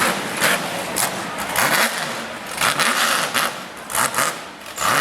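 Hill-climb buggy's engine revving hard up and down again and again as it bounces up a hill, with bursts of harsh hiss between the revs.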